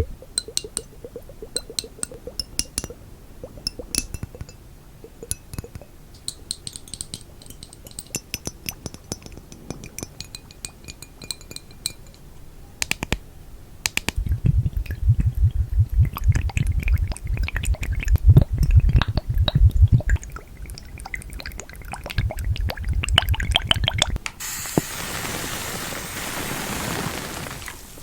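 ASMR tapping: fingertips and nails tapping and clinking on objects, some of them glass that rings briefly. The taps grow denser and heavier past the middle. A steady hiss takes over for the last few seconds.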